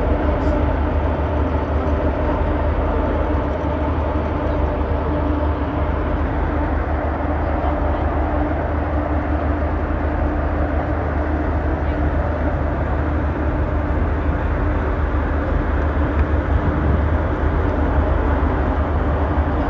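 Steady low rumble with a constant hum: the ferry's engine drone heard on board.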